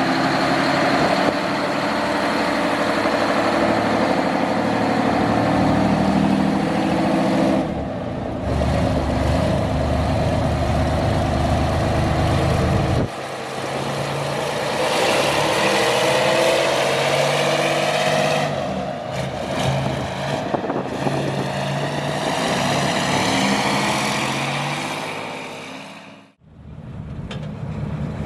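Heavy diesel truck engines running, the sound changing abruptly a few times between shots.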